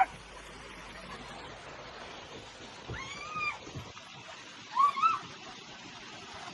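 A domestic cat meowing twice: a longer arching meow about three seconds in, then a shorter, two-part meow about two seconds later.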